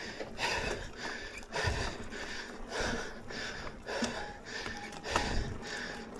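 A mountain biker breathing hard and fast under effort on a climb, about two breaths a second.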